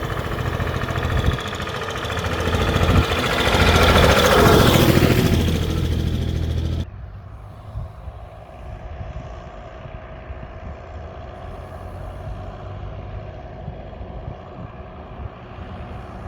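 Tractor engines running on the road: one swells louder to a peak about four to five seconds in as it passes close. About seven seconds in the sound cuts abruptly to a quieter, steady engine running.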